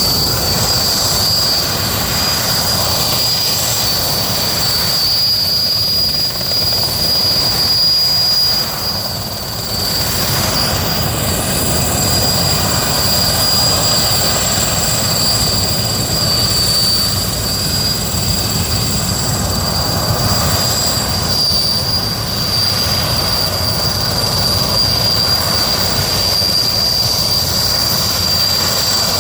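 Sikorsky S-64 Skycrane helicopter running: a steady high-pitched turbine whine over the low rumble of its rotors and engines, with a brief dip about eight seconds in.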